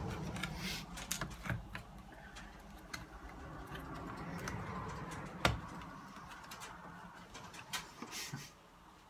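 Handling noise from working on a small radio: scattered clicks, taps and scrapes, with one sharp click about five and a half seconds in.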